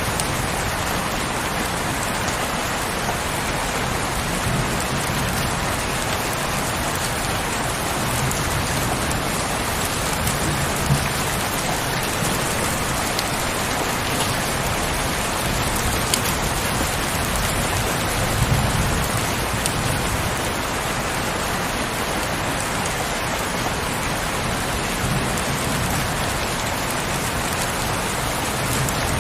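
Heavy rain falling steadily in a dense, even hiss, with a low rumble underneath that swells now and then.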